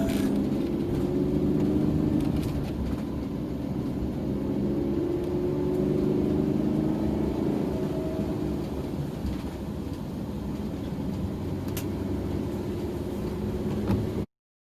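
Car engine and road rumble heard from inside the moving car, the engine note rising and falling as it drives on. The sound cuts off abruptly near the end.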